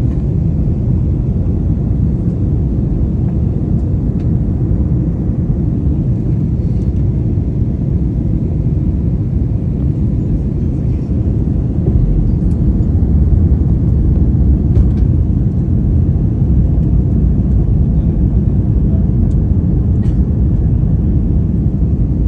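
Airliner cabin noise in flight: a steady low rumble of engines and airflow heard from inside the cabin, a little louder from about halfway through.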